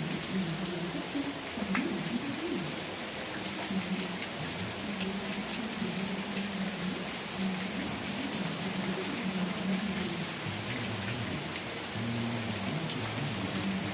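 Steady rain with individual drops ticking sharply on a surface. Faint low wavering tones run underneath.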